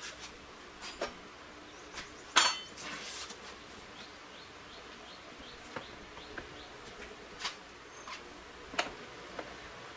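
Scattered taps and clinks of metal tools and parts, the loudest a single ringing metallic clink about two and a half seconds in, with faint bird chirps behind.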